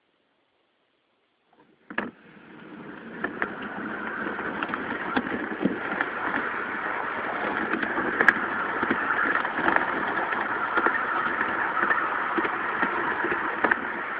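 G scale model train starting to run: after a sharp click about two seconds in, its running noise builds over a couple of seconds to a steady rumble and whir, with scattered clicks.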